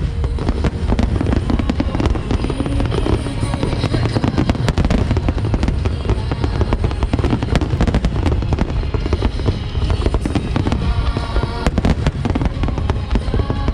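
A massed barrage of aerial firework shells bursting continuously, with dense overlapping bangs and crackle and no break.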